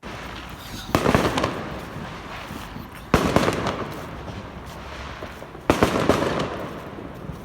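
Fireworks going off: three loud bangs about two to two and a half seconds apart, each followed by a string of smaller pops as it dies away.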